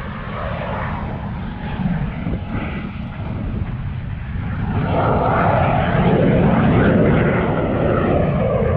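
Fighter jet flying by, its jet engine noise a steady rumble that grows louder about halfway through and stays loud.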